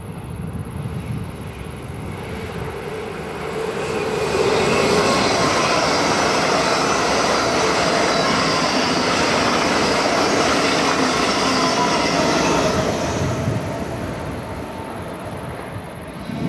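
A train passing at speed on the line: a rushing noise of wheels on rails that builds over the first few seconds, holds loud with a faint falling whine, and fades away about thirteen seconds in.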